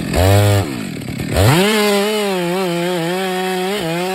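Chainsaw engine blipped once briefly, then throttled up about a second and a half in and held at a steady high speed.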